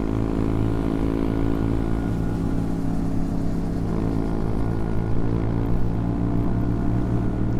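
CFMoto Papio XO-1's small single-cylinder engine running at a fairly steady speed while the motorcycle is ridden, with a little wind and road noise.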